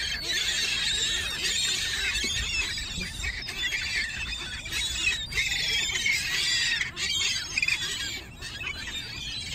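A flock of seagulls squeaking and calling at once, many short high calls overlapping without a break, as the birds crowd in for bread thrown to them.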